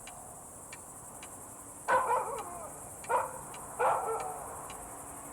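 A dog barking four short times, with a faint clock ticking about twice a second in the quiet between.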